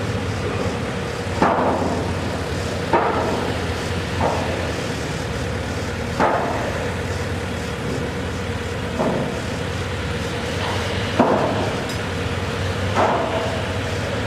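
Construction hammering: about eight irregular blows, each with a short metallic ring, over the steady hum of a running engine.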